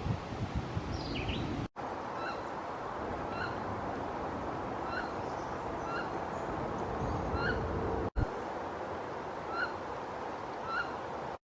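A bird repeating a short, rising call about seven times, every second or two, over a steady background hiss. The sound drops out briefly twice.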